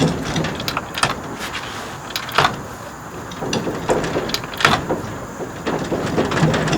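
Irregular clicks and knocks, about a dozen, scattered over a steady background noise.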